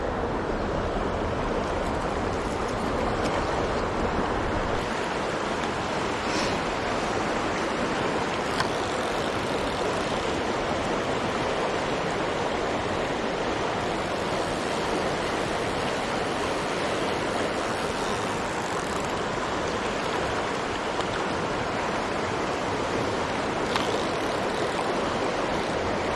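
Mountain stream rushing steadily, with a few faint ticks over the water's noise.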